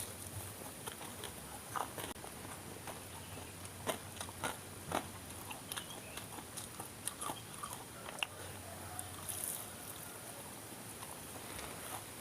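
Close-up eating of Indonesian fried snacks (fried tofu and tempeh): mouth sounds of biting and chewing, with irregular sharp crunches, several close together about four to five seconds in.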